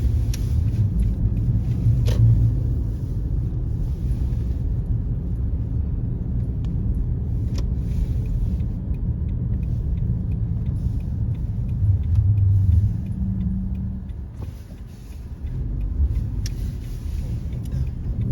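A car driving on a snow-covered road: a steady low rumble of engine and tyres, with a few faint clicks and a short dip in loudness near the end.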